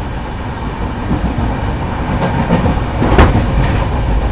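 Express train running at speed, heard from inside a passenger coach by the window: a steady low rumble with wheels clattering over rail joints, and one louder sharp knock about three seconds in.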